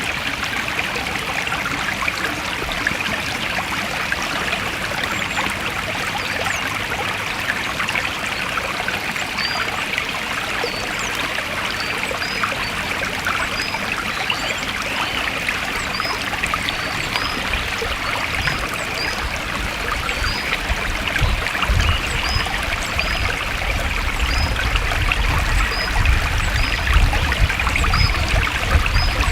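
A forest stream running steadily, a dense trickling rush of water. Faint high chirps repeat about once a second from about a third of the way in, and a deeper rushing swells in the last third.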